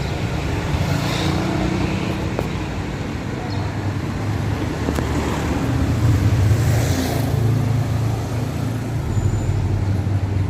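Street traffic noise, with a vehicle engine running close by as a steady low hum that grows a little louder about halfway through.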